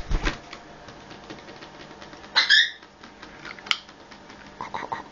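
An African grey parrot gives one short, high-pitched call about two and a half seconds in. A dull thump comes at the very start and a sharp click follows about a second after the call.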